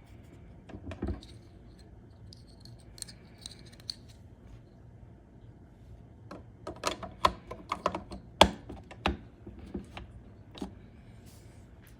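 Hands fitting a new impeller, with its ceramic shaft and rubber bushings, into the plastic motor head of a Sun Sun HW-304B canister filter: scattered light clicks and taps, then a quick run of sharper clicks and knocks in the second half.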